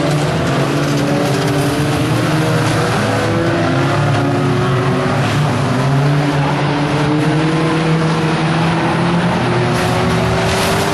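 Several 1600cc banger racing cars' engines running hard together, their overlapping engine notes rising and falling as the drivers rev and lift.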